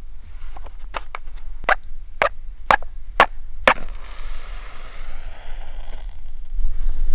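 Chopping on wood: five sharp strikes about half a second apart, followed by a soft hiss lasting a couple of seconds.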